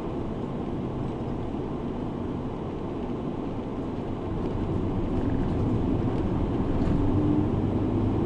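Engine and road noise of a Kumamoto Bus route bus heard from inside the cabin as it drives, a steady low rumble that grows louder about halfway through.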